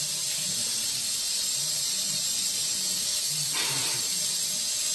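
Tap water running steadily into a bath, an even hiss.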